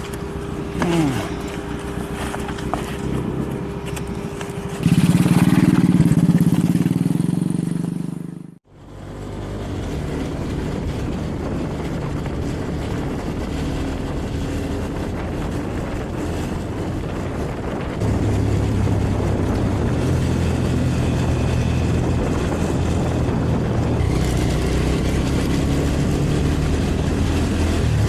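Suzuki 250 motorcycle's engine running while riding, with road and wind noise. The sound breaks off sharply about a third of the way in, then the engine runs steadily again and gets louder about two-thirds of the way through.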